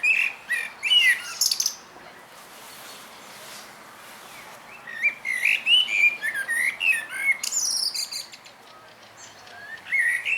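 Songbird singing in separate warbling phrases of gliding notes, with higher squeaky notes above them. One phrase comes at the start, a longer one about five seconds in, and another begins at the end.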